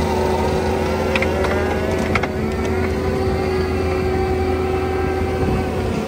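Bobcat T86 compact track loader's diesel engine running steadily under load, with its Coneteks forestry mulcher head grinding stumps and roots into the soil.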